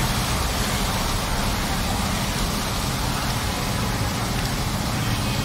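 Heavy rain pouring steadily onto a flooded street, over the low rumble of a Ford Figo car driving slowly through the floodwater.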